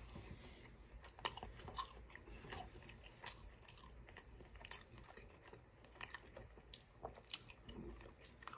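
Faint chewing of a breaded chicken strip, with irregular small crunches and clicks.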